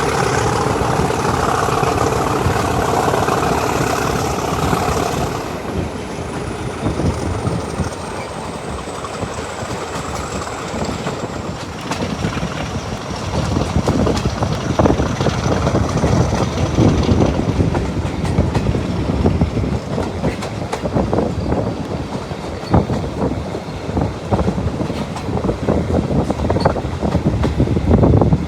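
Class 50 diesel locomotive's English Electric engine working under power with a high whine for about five seconds, then easing off as the whine falls in pitch. The train's wheels then clatter over rail joints with a steady rolling rumble.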